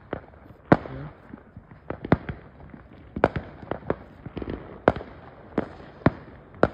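Fireworks going off: an irregular series of sharp bangs and pops, sometimes two or three a second, with a few bangs much louder than the rest.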